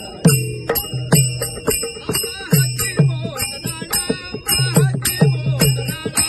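Bhajan accompaniment: a hand drum beating a steady rhythm, its deep strokes dropping in pitch after each hit, with small hand cymbals ringing and clashing over it.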